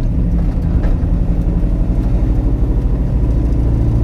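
The Mustang's 5.0 V8 running steadily at low revs, heard from inside the car, with no revving.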